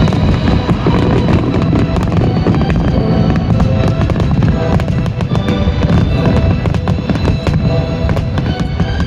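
Aerial fireworks going off in a dense, continuous run of deep booms and crackles, with music playing along with them.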